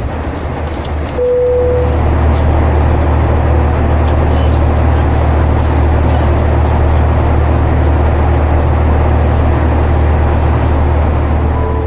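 Steady roar of engine and airflow noise inside the cabin of a Boeing 737-900ER airliner in flight. About a second in, a deeper rumble grows louder, and a brief single tone sounds at the same moment.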